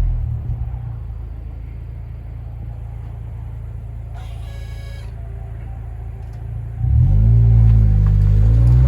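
Honda Civic FL1's 1.5-litre turbo four-cylinder idling through a COLBASSO GT-FOUR quad-tip aftermarket exhaust with a steady low drone, then blipped sharply near the end, the exhaust note rising and falling in pitch. A brief faint high tone is heard about four seconds in.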